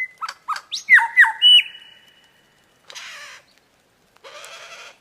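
A bird squawking: a quick run of sharp calls that drop in pitch during the first second and a half, then two longer rasping, hissy calls near the middle and near the end.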